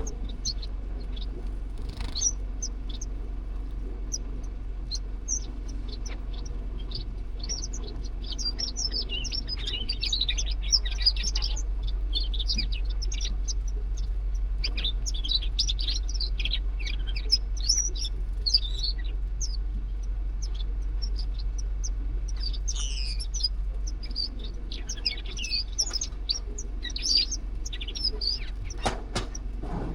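Zebra finches chirping and calling, many short high chirps in quick succession, busiest in the middle and again near the end, over a steady low hum.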